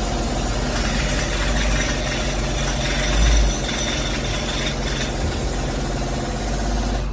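5.7 Hemi V8 engine running at idle, steady, with a brief deeper swell about three seconds in.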